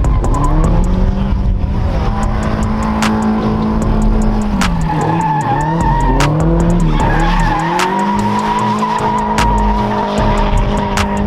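A drifting car's engine held at high revs with its tyres squealing. The revs dip and climb back several times, mostly in the middle. A few sharp clicks are heard.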